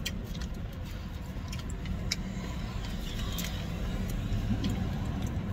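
Low, steady hum of a car engine idling, heard inside the cabin, with scattered small crinkles and clicks of a food wrapper being torn open and handled.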